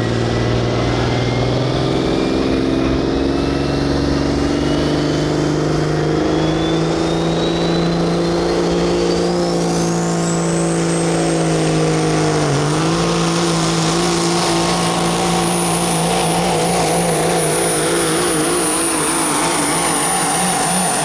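Pro stock semi truck's diesel engine running hard under load while pulling the sled. Its engine note rises with a brief dip about twelve seconds in, and a high whine climbs steadily for about ten seconds and then holds high.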